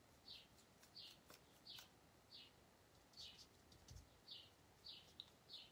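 A small songbird chirping faintly: short, high chirps repeated steadily, nearly two a second, each falling slightly in pitch.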